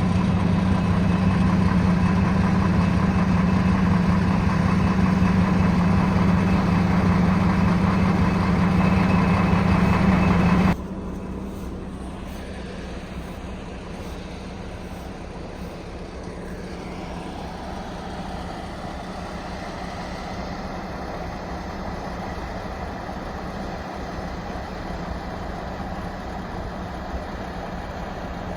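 1972 O&K V12 diesel engine running steadily with a strong low hum. About eleven seconds in the sound drops abruptly, then runs on steady and quieter.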